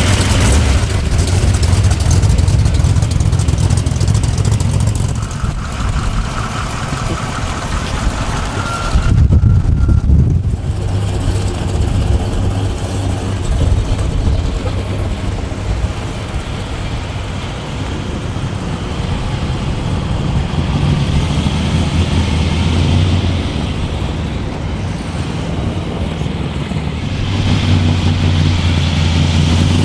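Engines of classic cars, mostly big American V8 muscle cars, idling and rumbling as the cars drive slowly past one after another, with a louder swell about nine seconds in and another near the end.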